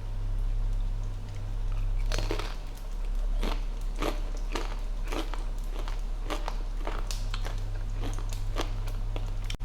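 Crisp fried taco shells crunching: a series of sharp, irregular crunches from about two seconds in, over a steady low hum.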